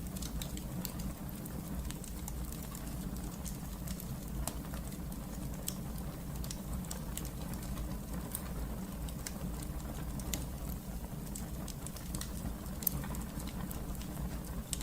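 Wood fire burning in a fireplace: a steady low rumble of flames with frequent small crackles and pops scattered throughout, one slightly louder pop near the end.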